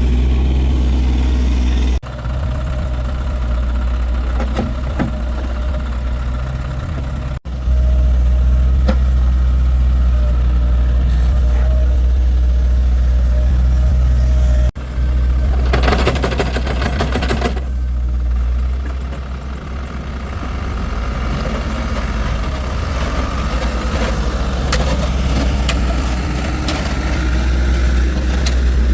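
A heavy vehicle's engine running steadily with a deep, even drone, broken off abruptly a few times. About sixteen seconds in there is a short burst of harsh, rattling noise lasting under two seconds.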